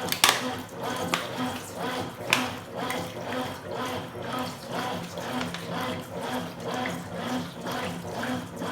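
Consul Supercargo 8 kg top-loading washing machine agitating a load of towels in rinse water, the water sloshing in an even rhythm about twice a second.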